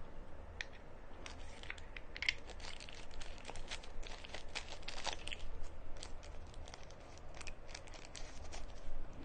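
Plastic packaging crinkling and rustling in the hands, a stream of irregular small crackles and clicks as an accessory is handled and unwrapped.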